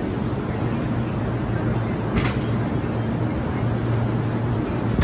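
Electric train at the station giving a steady low hum over a rumble, with a brief hiss about two seconds in.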